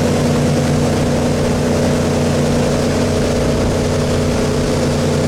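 Centurion Fi25 wake boat's inboard engine droning steadily at towing speed, with the rush of wind and water over it.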